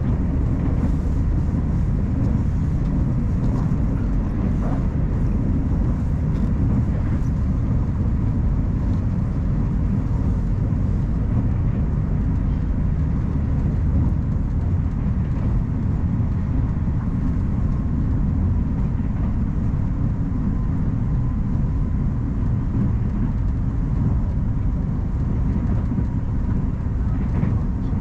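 Puyuma Express tilting electric train running at speed: a steady low rumble of wheels on rail, with a faint steady whine that grows a little stronger in the second half.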